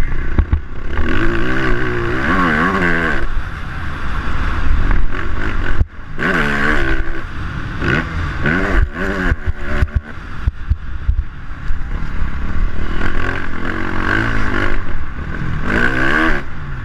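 KTM 450 SX-F motocross bike's single-cylinder four-stroke engine at race pace, revving up and falling back again and again through the lap, with a sharp throttle chop about six seconds in. A low rumble of wind sits on the helmet-mounted microphone underneath.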